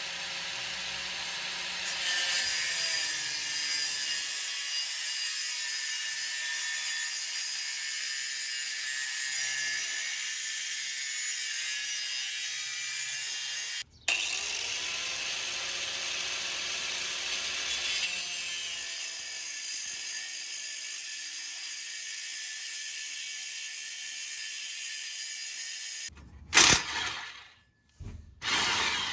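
A power tool cutting through a steel exhaust pipe: a steady, high-pitched cutting noise that runs about fourteen seconds, stops briefly, then runs about twelve seconds more. A loud knock comes near the end.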